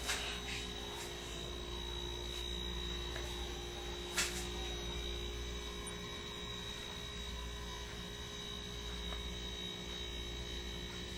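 Steady low electrical hum with faint steady tones, broken by two short clicks: one right at the start and one about four seconds in.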